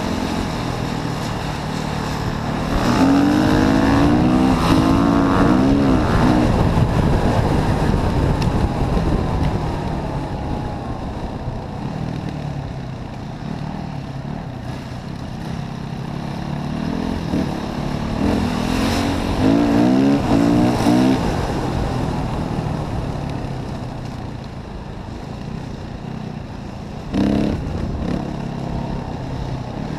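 Yamaha WR 450F single-cylinder four-stroke enduro motorcycle engine running under load off-road, its revs rising and falling in two long surges, one a few seconds in and another about two-thirds of the way through, with a brief sharp blip near the end.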